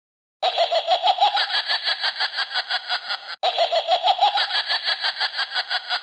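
A laughter sound effect: a fast, pulsing laugh that starts about half a second in. It cuts off abruptly at about three and a half seconds and starts again the same way, as if repeated.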